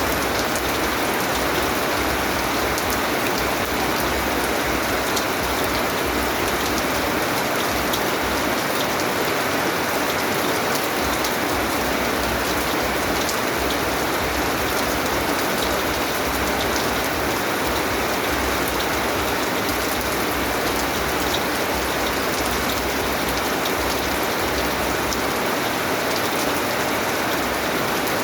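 Steady rain falling, a dense even patter of drops on surfaces with fine individual drop ticks.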